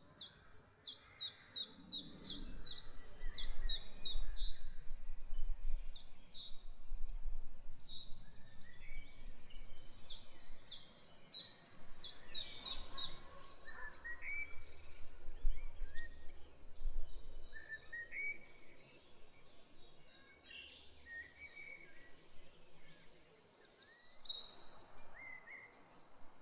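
Songbirds singing: one bird repeats a rapid, high trill phrase a few seconds long several times, with other birds' short chirps in between.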